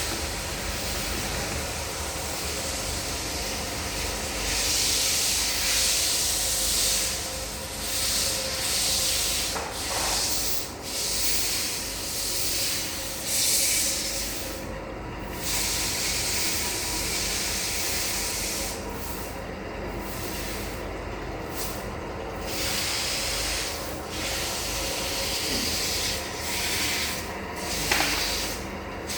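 Continuous hissing, rubbing noise that swells and fades every second or two, over a steady low hum.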